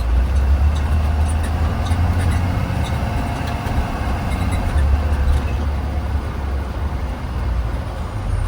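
Blue Bird Vision school bus under way, heard from inside: a steady low engine and road rumble that swells twice, with small rattles.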